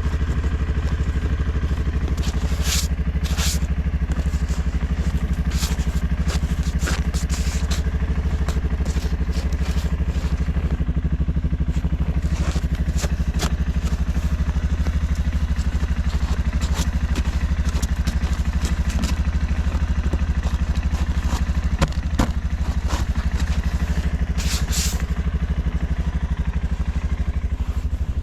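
Suzuki KingQuad ATV engine running steadily under load, with scattered scrapes and clatter and a sharp knock about three-quarters of the way through.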